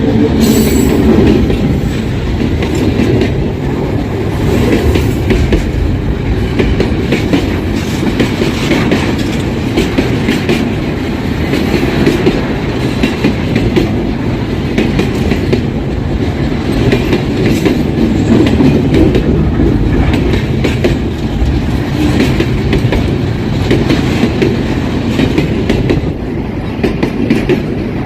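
Empty freight train rolling past at close range: a steady, loud rumble with the wheels clacking over rail joints.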